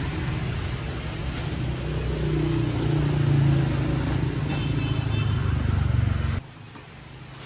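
A motor vehicle's engine running steadily, rising slightly in pitch midway, then cut off abruptly near the end.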